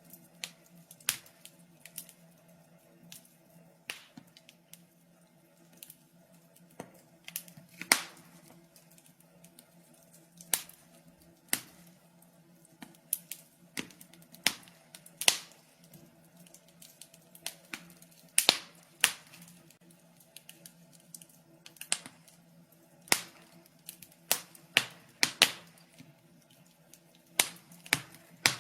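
Fireplace fire crackling, with irregular sharp pops, some single and some in quick clusters, over a faint steady low hum.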